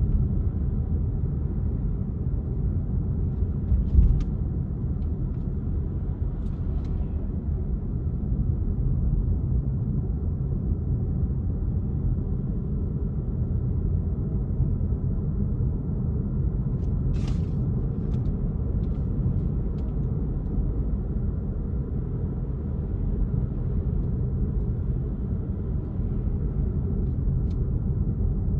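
A car driving, giving a steady low road and engine rumble, with a brief knock about four seconds in and a short hiss about seventeen seconds in.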